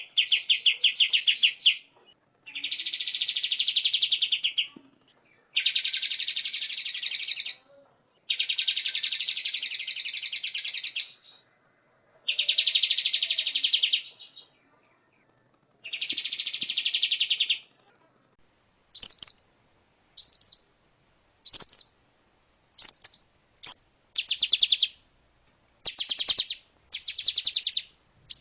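Songbird recording: a series of long, rapid trills, each about two seconds long with short pauses between them. From about two-thirds of the way in it gives way to short, high, sharp notes repeated roughly once a second.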